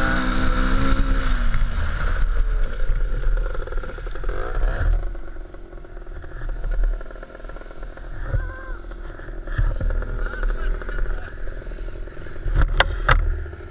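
A motor vehicle driving, its engine note falling over the first couple of seconds, with steady low road rumble throughout. Two sharp knocks come close together near the end.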